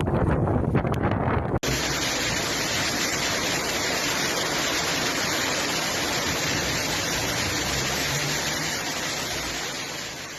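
Strong wind buffeting a microphone, cut off about one and a half seconds in by a steady, even rushing noise of storm water or rain that fades out near the end.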